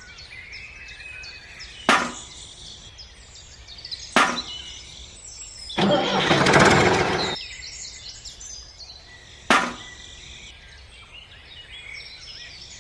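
Birds chirping over a low background, broken by three sharp knocks and, about six seconds in, a rush of noise lasting about a second and a half.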